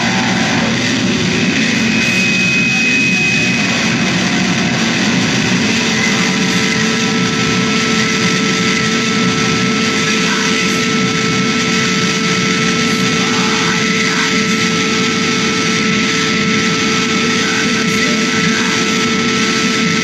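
Harsh noise music: a dense, loud wall of distorted sound, joined about four seconds in by a steady held drone tone that stays to the end.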